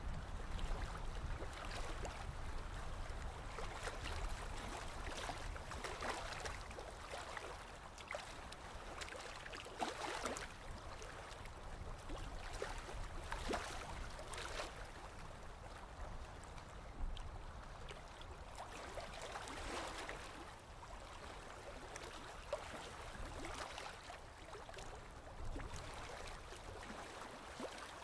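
Gentle sea waves washing in, rising in swells every three to six seconds over a low, steady rumble.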